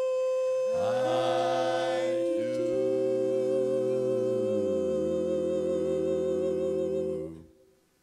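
A singer holds the final long note of a love song, the last word "do", over sustained accompaniment chords that enter about a second in and shift twice. The note wavers slightly in its second half, then the song ends about seven seconds in.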